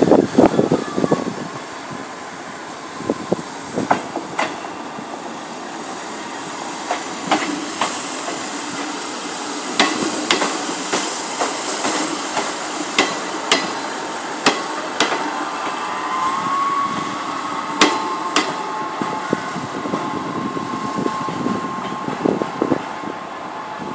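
A Class 158 diesel multiple unit passing at low speed over pointwork, its wheels clacking sharply and unevenly over the rail joints and crossings. A steady whine from the train joins in about two-thirds of the way through.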